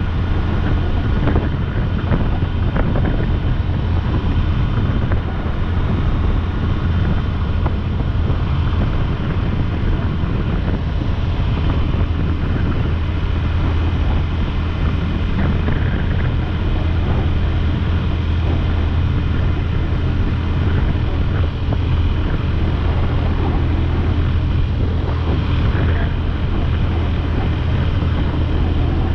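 Motorcycle cruising at a steady speed: a constant low engine hum under heavy wind rush on the microphone.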